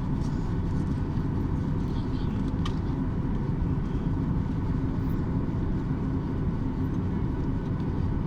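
Airliner cabin noise while taxiing after landing: a steady low rumble of the engines at idle and the air system, with a few faint steady tones and an occasional faint click.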